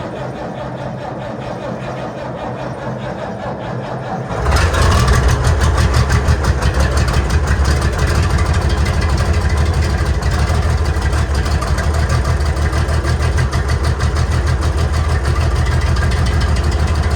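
International Harvester 966 tractor's diesel engine cold-starting in freezing weather: it cranks for about four seconds, then catches with a sudden jump in loudness and settles into a steady, rhythmic run.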